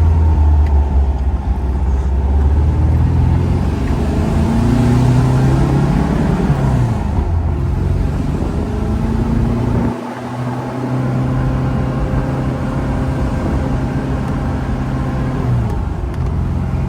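1972 Porsche 914's air-cooled engine heard from inside the car while driving. The engine note climbs for a few seconds and breaks off about seven seconds in, dips briefly about ten seconds in, then holds a steady pitch.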